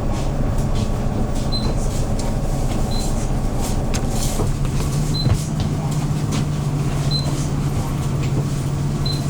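Engine of a Hyundai New Super Aero City CNG city bus running steadily. Its note changes about halfway through, and there is a single knock shortly after. Short high beeps sound every second or two throughout.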